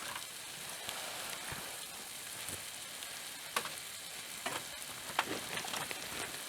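Cornish game hen sizzling steadily on hot metal over a campfire, with a few sharp pops.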